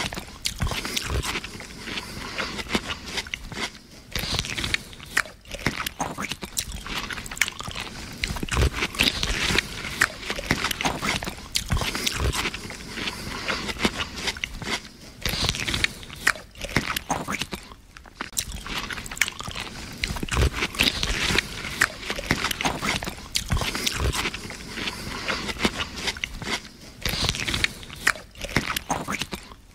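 Crunchy eating sound effect: loud, irregular bites and chewing crunches follow one another almost without pause, with only brief gaps.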